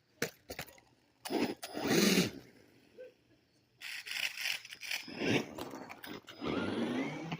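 1/14-scale RC monster truck on paddle tires driven in short throttle bursts: its electric motor whine sweeps up and down in pitch several times, with tire and scraping noise and a few sharp clicks near the start.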